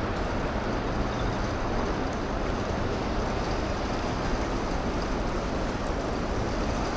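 Meitetsu train running past at speed: a steady rushing roar of wheels on rail with a low rumble underneath.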